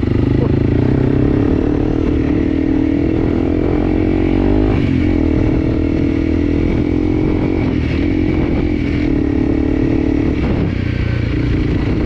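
Enduro dirt bike engine running under changing throttle as it is ridden, its note wavering and dipping briefly about five seconds in and again near ten seconds.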